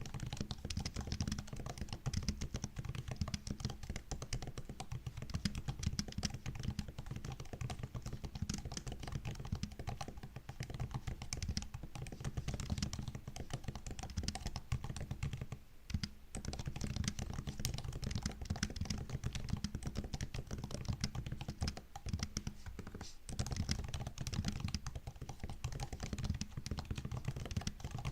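Typing on a MacBook's built-in keyboard: a steady stream of quick, soft key clicks, broken by a few short pauses.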